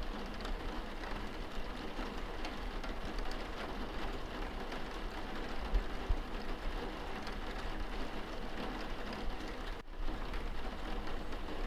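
Rain falling on window glass, heard from inside the room: a steady patter of drops with fine ticks. It dips out for a split second near the end.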